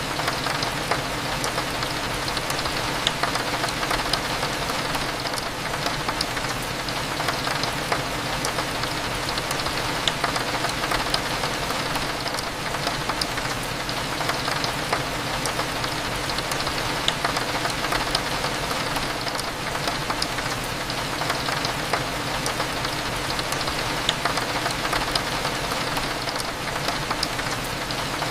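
Steady rain, with scattered individual drops ticking, over a low steady hum.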